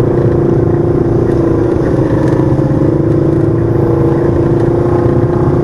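Side-by-side UTV engine running at a steady, even pitch under way.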